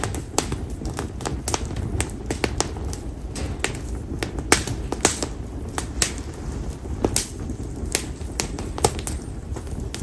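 Split konara (Japanese oak) firewood burning in an open fire, crackling with irregular sharp pops several times a second over a steady low rumble of flame.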